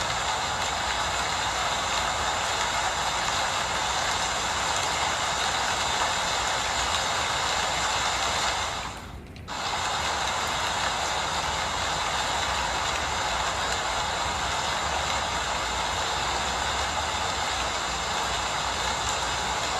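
Steady rain falling, a continuous even hiss that drops away briefly for about half a second around nine seconds in.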